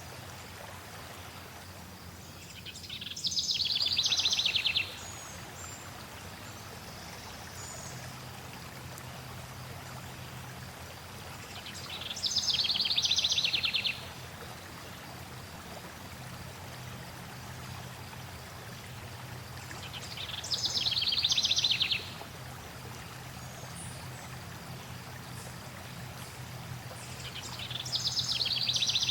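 Steady flowing water with a songbird singing the same short, rapid trill four times, about every eight seconds. Each trill swells for about two seconds and stops abruptly.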